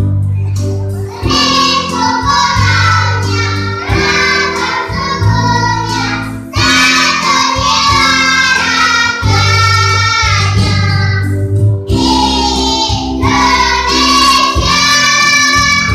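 Kindergarten children's choir singing together over a steady, low sustained accompaniment, in phrases with short breaks between them.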